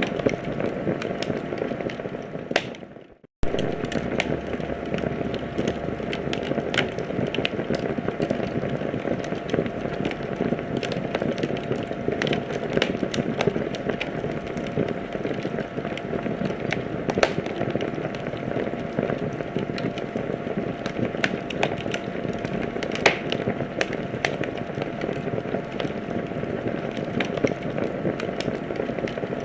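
Wood fire crackling in a fireplace: a steady rush of burning with frequent sharp pops and snaps. About three seconds in the sound fades out to silence for a moment, then cuts back in abruptly.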